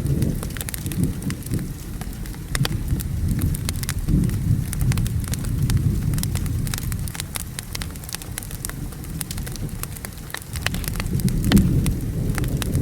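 Wood fire crackling with frequent sharp pops, over steady rain and low rolling thunder that swells near the start, around four to six seconds in, and again near the end.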